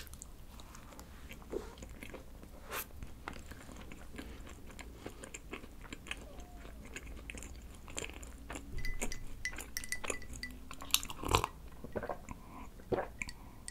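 Close-miked chewing of a soft red bean bread filled with injeolmi cream and chewy rice cake, with many small wet mouth clicks and smacks. Near the end, a sip from a glass of iced coffee.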